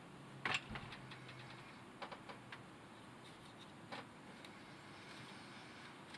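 A sharp knock, then a few light clicks, then a second knock: small objects being handled and set down.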